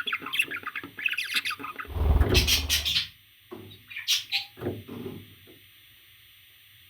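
Parrot chattering in rapid chirps and squawks for the first two seconds, then a loud noisy scuffle that lasts about a second, followed by a few shorter calls.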